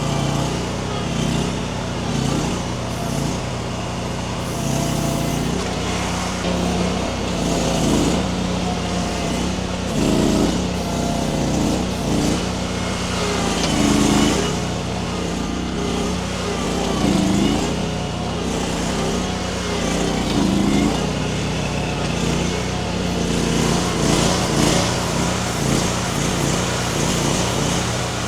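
Baumalight mini skid steer's engine running steadily under load, its note swelling and easing every few seconds as the hydraulics strain with the grapple working a tree's root ball loose.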